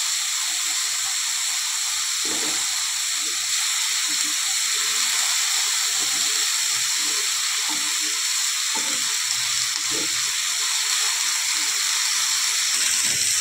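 Potato sticks sizzling steadily as they fry in hot mustard oil in a frying pan. Occasional soft knocks come as the potatoes are pushed around the pan by hand and with a wooden spatula.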